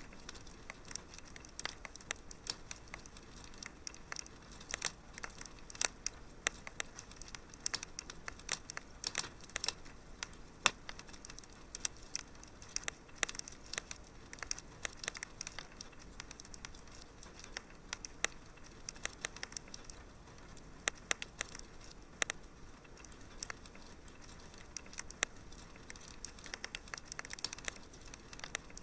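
Wood fire crackling in a fireplace, with frequent irregular sharp pops and snaps over a faint steady hiss.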